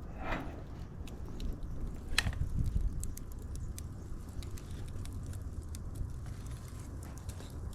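Wood fire crackling, with a steady low rumble of burning under many small irregular pops and clicks. A sharper pop comes just after the start and another about two seconds in.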